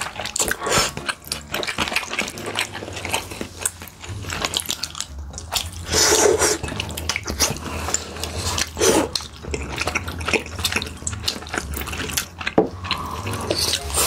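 Close-miked eating sounds: wet chewing and smacking with many irregular clicks, and a couple of louder moments about six and nine seconds in.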